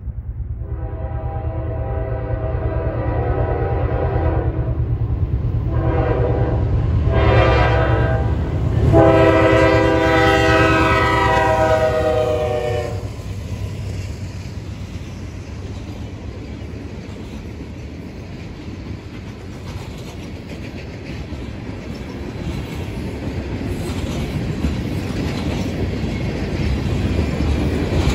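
Norfolk Southern freight train's diesel locomotive horn sounding the grade-crossing signal: one long blast, two short ones, then a long final blast that drops slightly in pitch as the locomotives pass. It plays over the locomotives' low rumble. After the horn ends, freight cars rumble and clack steadily over the rails.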